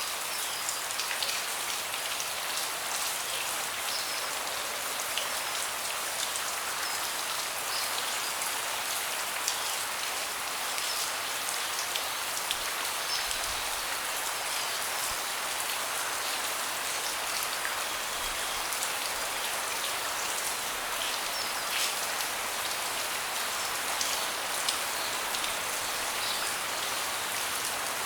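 Steady rain falling on a deck, with many individual drops ticking sharply against a constant hiss.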